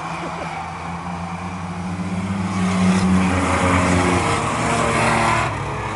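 Race trucks' engines running at speed on a speedway track, growing louder about two seconds in as they come past, then falling away near the end.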